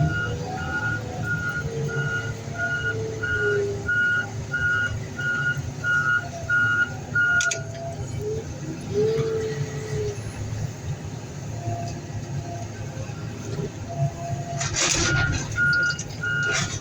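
Heavy vehicle's reversing alarm beeping steadily, about three beeps every two seconds, over a running diesel engine. The alarm stops about halfway through and starts again near the end, just after a burst of clatter.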